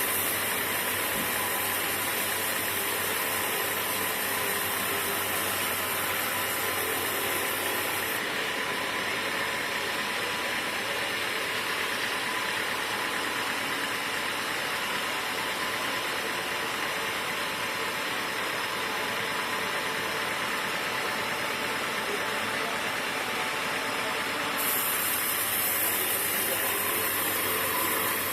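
Sawmill machinery running steadily: a continuous mechanical noise with a faint steady hum, its upper hiss dropping away about eight seconds in and returning near the end.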